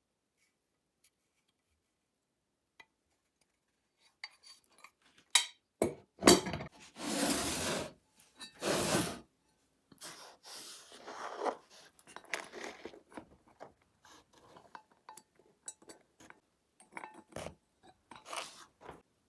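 Hard objects clinking, tapping and scraping as they are handled at close range, with two longer scraping sounds about seven and nine seconds in and lighter clinks and rubs after.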